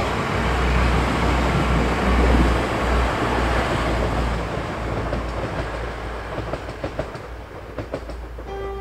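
TransPennine Express train passing close by, loudest in the first few seconds and then fading away. Near the end comes a short run of clicks as the wheels go over rail joints.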